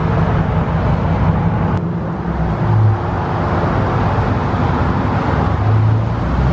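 The 6.4-litre 392 HEMI V8 of a 2021 Dodge Charger Scat Pack Widebody running with a deep, steady exhaust note. The note swells briefly twice, about three and six seconds in.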